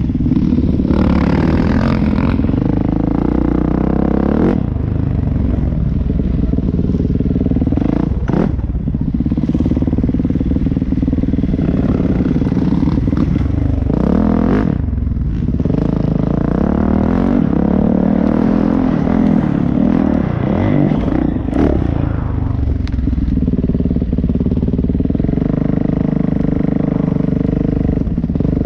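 Off-road motorcycle engine running hard, revving up and falling back again and again, with a few sharp knocks along the way.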